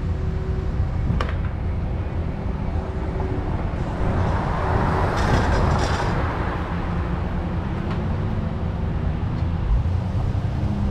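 Motor vehicle engine and road traffic: a steady low engine rumble, with a rush of passing-traffic noise that swells and fades in the middle.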